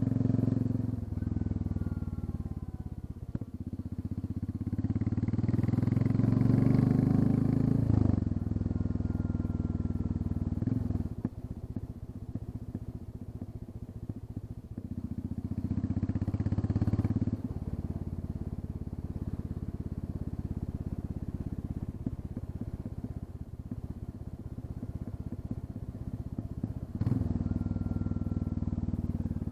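Royal Enfield Classic 350's single-cylinder engine running with its end muffler removed, catalysts still fitted. The engine note swells and rises in pitch several times, falling back after each: about five seconds in, again around sixteen seconds, and once more near the end.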